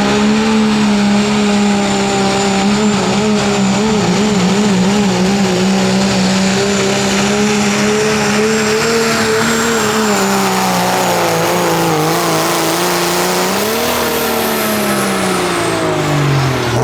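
Diesel pickup truck engine, 2.6-class turbo, running flat out under load while pulling a sled. The note holds high and wavers, with a faint high whine over it. It sags past the middle, rises briefly and falls away near the end.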